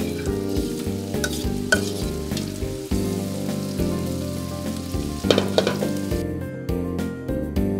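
Shrimp and sautéed mushrooms and green onions sizzling in butter in a hot cast iron skillet as the shrimp are tipped in, with a louder flare of sizzle about five seconds in. The sizzle stops about six seconds in, leaving background guitar music that runs underneath throughout.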